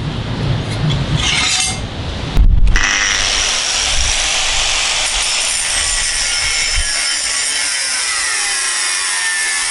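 Power tool cutting or grinding the stainless Damascus steel: a steady, loud high-pitched hiss that starts suddenly about three seconds in as the steel meets the tool. Before that come short scrapes and handling noise.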